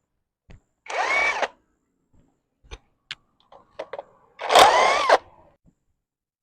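Handheld electric drill-driver run in two short bursts, about a second in and again near the end. Its whine rises as the motor spins up and drops as it stops. Small clicks and knocks of handling come between the runs.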